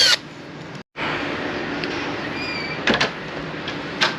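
A power drill driving a 3-inch screw into a door, its motor whine rising and falling before it stops in the first moment. After a brief gap there is a steady hiss with two short sharp clicks.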